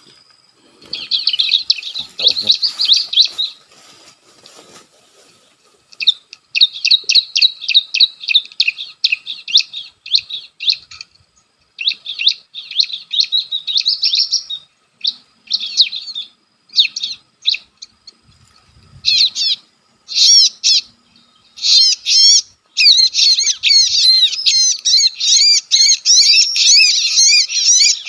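Recorded bar-winged prinia (ciblek) calls played through a speaker as a trapping lure: loud bouts of rapid, high chattering notes separated by short pauses, becoming nearly continuous near the end.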